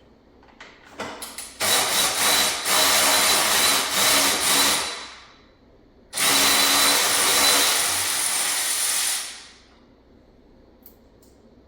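Cordless power tool run in two long bursts of a few seconds each, a steady whine over the motor noise, each run tailing off as it spins down: bolts being run out during transmission removal.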